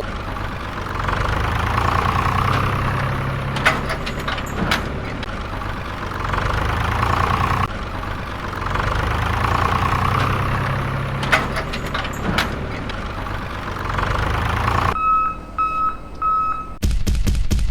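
Tractor engine running steadily, the same stretch of sound repeating about every eight seconds. Near the end it stops and three short beeps sound, followed by a fast ticking rhythm.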